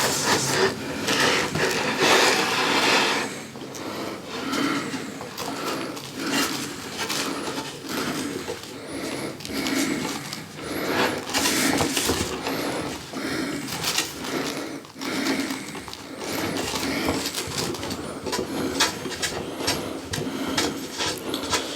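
Telescope parts being handled and fitted together, with irregular clicks, light knocks and rubbing as a fitting is tightened by hand.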